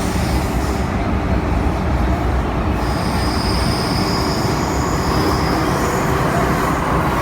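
MTR Tseung Kwan O line M-Train running between stations, heard from inside the car: a steady low rumble of the running train. From about three seconds in, a thin high-pitched squeal is held over it.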